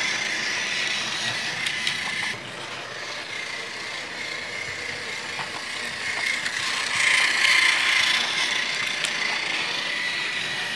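AA-battery toy train engine running around plastic track: a steady geared-motor whir with faint clicks, getting quieter a couple of seconds in and louder again after about seven seconds.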